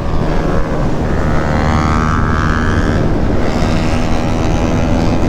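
Motorcycle engines with loud aftermarket exhausts running, the pitch climbing as the engine revs about two seconds in.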